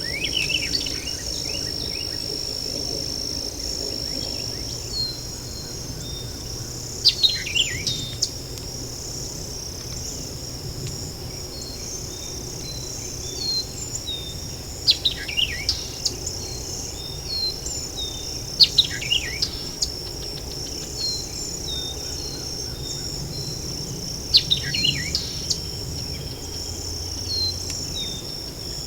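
Night insect chorus holding a steady high-pitched trill, while a bird calls every eight seconds or so with a short cluster of quick falling notes, the loudest sound.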